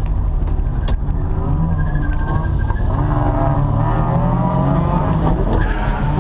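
Holden VY Commodore ute's engine running under load, its revs rising and falling as the car is driven on a wet skid pan, with a single sharp click about a second in.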